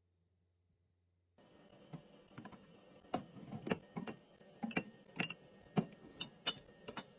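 Containers and food items being set down and handled on fridge shelves: a run of irregular light taps and clicks, some with a dull thump, starting after about a second and a half of silence.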